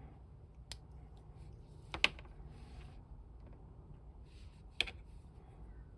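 A few sharp clicks and knocks of small hard plastic action-figure parts being handled and fitted together, the loudest a double click about two seconds in, with light rustling between.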